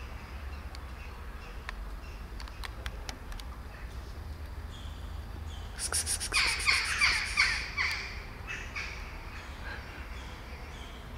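Birds chirping and calling, with a loud flurry of rapid calls about six seconds in that lasts around two seconds; a few sharp clicks come earlier, over a low steady rumble.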